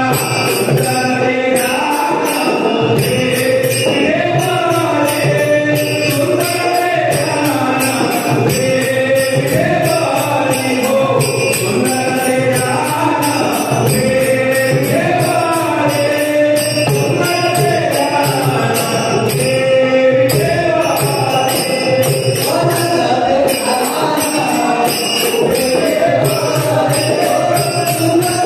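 Marathi devotional abhang sung in bhajan style over a steady, bright percussion beat.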